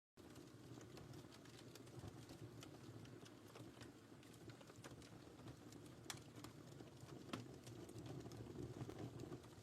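Wood fire in a fireplace crackling: irregular sharp pops and snaps over a faint, steady low rumble of the flames, with a couple of louder pops about six and seven seconds in.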